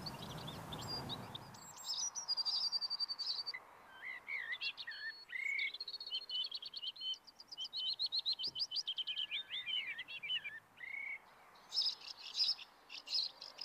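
Songbirds singing: a run of varied chirps, short sweeping notes and quick trills, starting a couple of seconds in.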